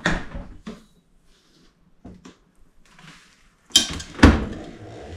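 Knocks and clunks of food containers and fittings being handled as a refrigerator is restocked. The two loudest come close together near the end.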